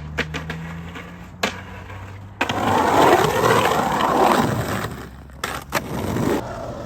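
Skateboard wheels rolling, loudest from about two and a half to four and a half seconds in, with sharp clacks of the board before and after.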